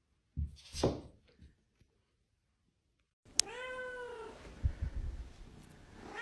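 A brief rustling noise, then a domestic cat gives one long meow that rises and falls in pitch. A couple of low thumps follow, and another meow starts near the end.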